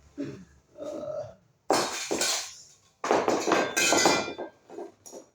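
Hard parts of a fan being handled during assembly: a sudden knock about two seconds in, then a longer clattering and scraping with clinks.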